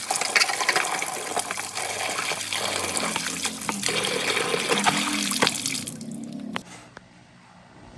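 Water running and splashing in a steady rush, cutting off about six seconds in; a few faint knocks follow.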